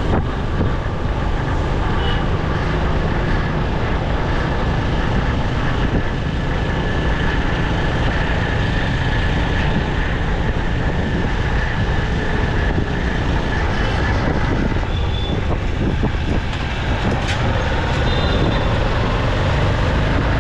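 Motorcycle riding through city traffic: steady wind rush over the microphone over the engine and traffic noise, with a few faint short high tones near the end.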